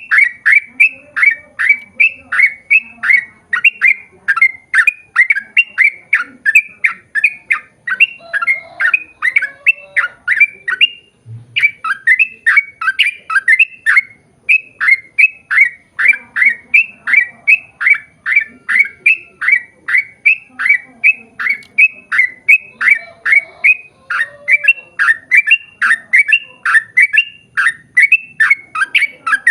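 Yellow-vented bulbul (trucukan) singing a long rapid run of sharp, repeated notes, about three or four a second, with a brief break about a third of the way through.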